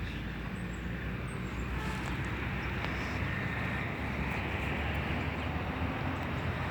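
Steady outdoor background noise: a continuous low rumble with an even hiss above it, no distinct events.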